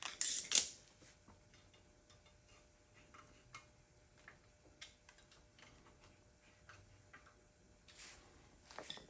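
Irregular light metallic clicks and clinks from hand tools and brake hardware being handled, with a louder scraping clatter in the first second.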